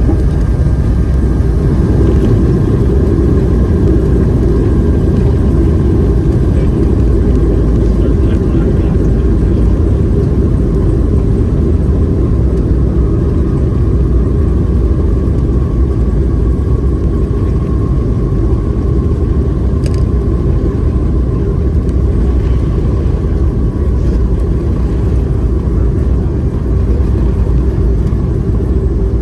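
Boeing 757-200 heard from inside the cabin: a loud, steady rumble of engine and airflow noise, with a faint engine whine that slowly falls in pitch.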